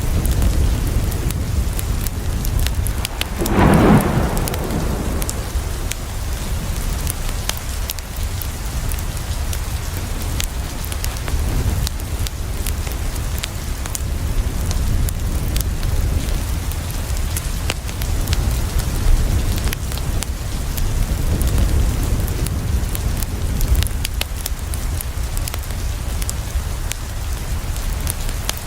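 Steady rain falling on a window, an even hiss with a low rumble underneath and many fine sharp clicks scattered through it. About four seconds in there is one brief, louder rumbling burst.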